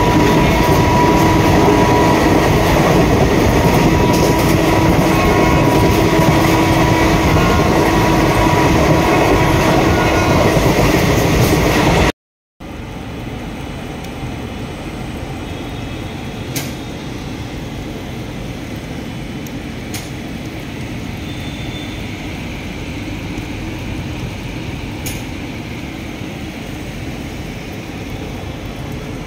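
Passenger train running at speed, heard from inside the coach as a loud, steady noise. It cuts off about twelve seconds in. After a brief silence a much quieter steady sound follows from the train at a station platform, with a few faint clicks.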